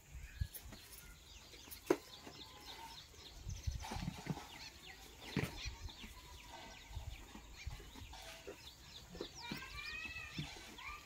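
Birds chirping and calling throughout, with scattered knocks and rustles. Near the end comes a louder call of several arching notes that rise and fall.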